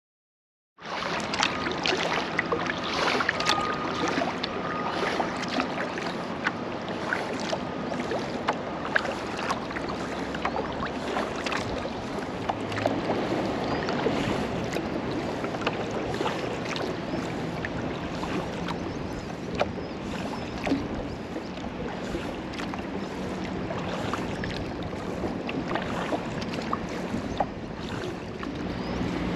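Kayak under way on the water: paddle splashes and water lapping against the hull, with frequent small knocks and wind noise on the microphone.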